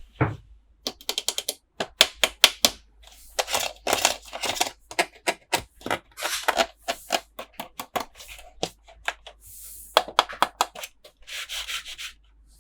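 Hands opening and handling plastic toy packaging: rapid irregular clicking and crinkling in bursts, close to the microphone.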